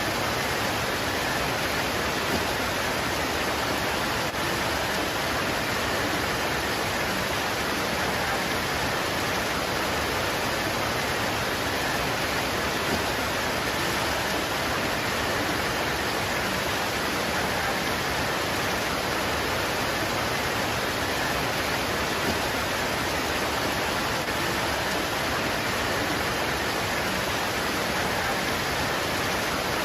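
Steady heavy rain pouring down on leaves, an even hiss with no letup.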